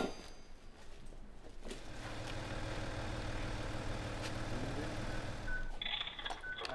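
Vehicle engine idling with a steady low hum, with a few short electronic beeps near the end.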